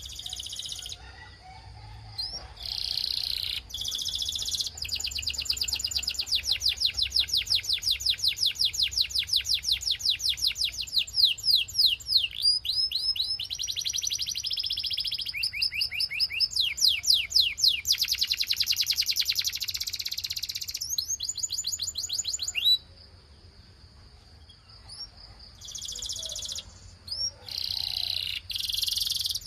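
Belgian canary singing a long, high-pitched song of fast trills: runs of rapidly repeated sweeping notes that change speed from one phrase to the next. The song breaks off for a couple of seconds about three quarters of the way through, then starts again.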